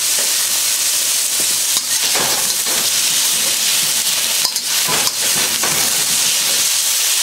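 Beef slices, ginger, onion and celery sizzling hard in hot oil in a wok on high heat, with a steady frying hiss. A wok spatula scrapes and clacks against the wok several times as the food is stirred.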